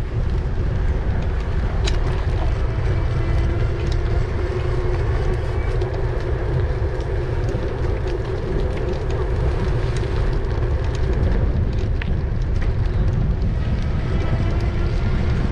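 Steady low rush of wind on the microphone while riding an e-bike, with a steady hum running through it.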